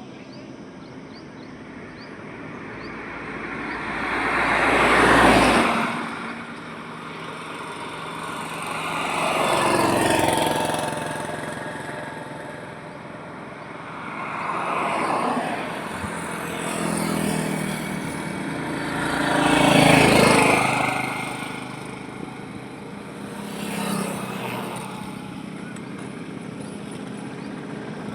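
Highway traffic with vehicles passing one after another, each engine and tyre noise swelling and then fading as it goes by, about six in all. The loudest passes come about five seconds in and about twenty seconds in.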